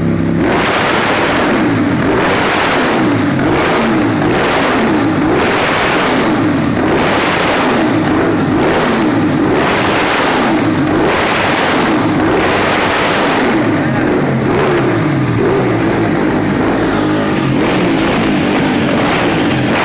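Ducati 1098's L-twin engine being revved in quick blips, roughly once a second, its pitch rising and falling each time. The revving settles into a steadier hum for a few seconds about two-thirds of the way through before the blips resume.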